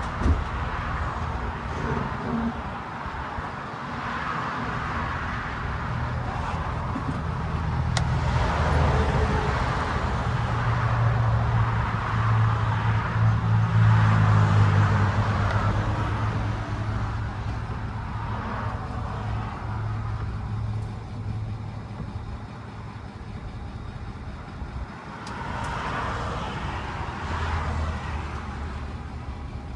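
Ford F350's 6.7-litre Power Stroke diesel V8 running at low speed as the truck creeps backward in reverse. The engine note swells for several seconds in the middle, then eases off.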